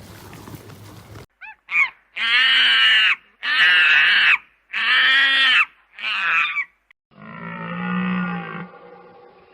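An animal calling repeatedly: two short calls, then four strong, evenly spaced calls of about a second each, and a longer, lower call near the end.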